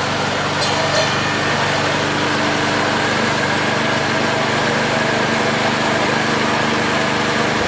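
Motor of a cassava stem cutting machine running at a steady speed, with a couple of faint clicks about a second in.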